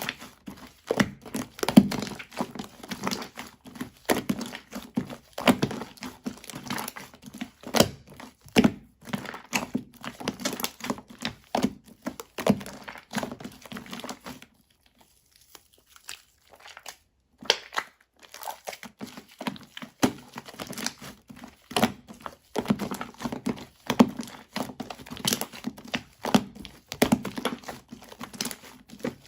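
Foamy shaving-foam slime being squeezed and stretched by hand, giving dense irregular crackles, pops and wet squishes. There is a pause of about three seconds midway before the crackling starts again.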